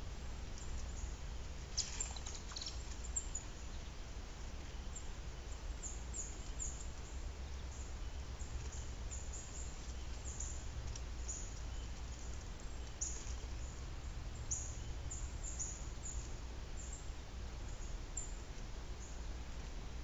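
Faint, high, brief bird chirps scattered throughout over a steady low hum, with a short cluster of clicks about two seconds in.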